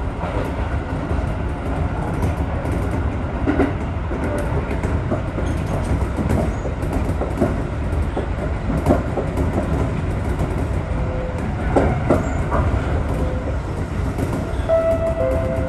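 Electric commuter train running along the line, heard from the driver's cab: a steady rumble of wheels and running gear, with irregular knocks as the wheels pass over rail joints. A short squeal comes near the end.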